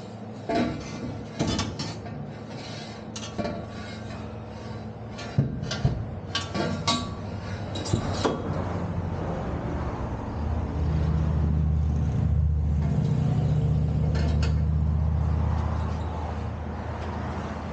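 Metal clanks and knocks from handling and fitting steel exhaust pipe, several sharp hits in the first half. About halfway through a steady low hum starts and holds for about five seconds, then fades.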